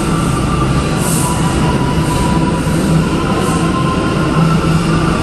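New York City subway train running through an underground station: a loud, steady rumble with a thin steady whine above it and a few short high hisses.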